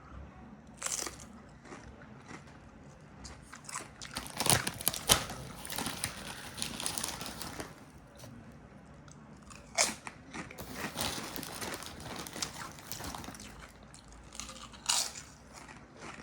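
Sabritas original potato chips being bitten and chewed close to the microphone: sharp crunches in uneven clusters with quieter chewing between them.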